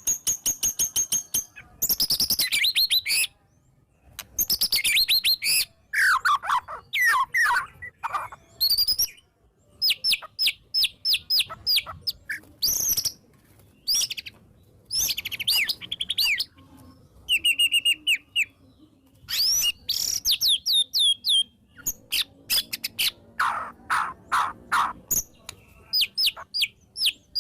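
White-rumped shama (murai batu) singing in short, loud, varied phrases of rapid chips, trills and whistles, some falling in pitch, with brief pauses between them. The song is packed with fill phrases mimicking other birds.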